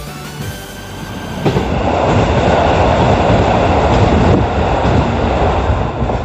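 Electric commuter train passing close by along a station platform at speed: its running noise builds, jumps to loud about a second and a half in, holds for about four seconds, then starts to ease as the train goes by.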